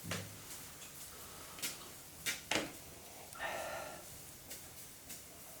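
A few scattered sharp clicks and light knocks in a small room, with a short hum-like sound about halfway through.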